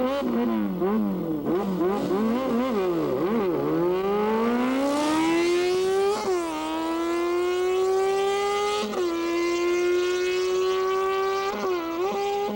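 Motorcycle engine revved up and down several times in quick throttle blips, then accelerating hard in a long rising whine. The pitch drops at gear changes about six and nine seconds in and climbs again after each one.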